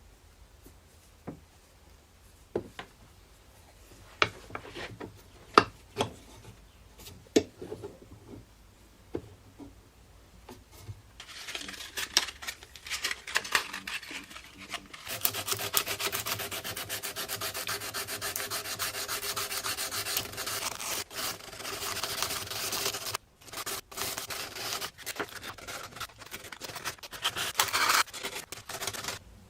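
Rust being scrubbed off a steel knife blade with an abrasive. A few separate scrapes and knocks come first. Then, from about a third of the way in, there are steady rapid strokes, with a brief break about three quarters through.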